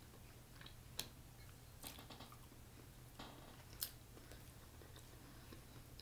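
Faint chewing of a mouthful of seafood boil, with a few short sharp wet mouth clicks, the loudest about a second in and near four seconds in.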